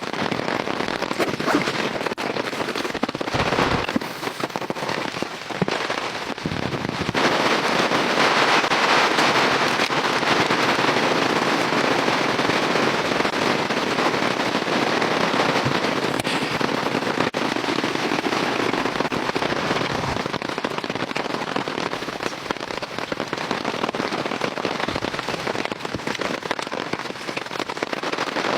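Heavy rain falling in a dense, crackling patter, getting louder about seven seconds in.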